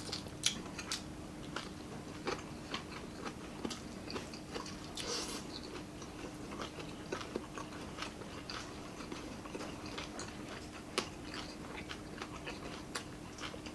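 Close-up mukbang eating: people chewing food with their mouths, with many small crunches, wet smacks and clicks scattered irregularly, over a faint steady hum.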